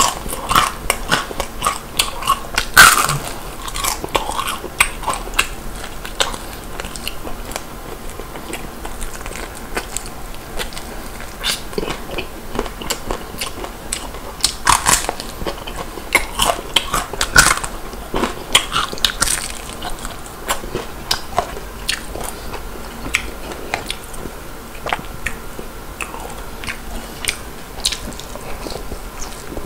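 Biting and chewing of crispy Korean-style whole fried chicken, with many sharp crunches of the fried crust. The loudest crunches come about three seconds in and again around fifteen to eighteen seconds.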